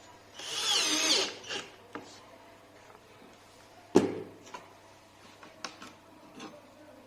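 A small power-tool motor runs for about a second with a wavering whine. About four seconds in there is a single sharp knock, followed by a few light clicks.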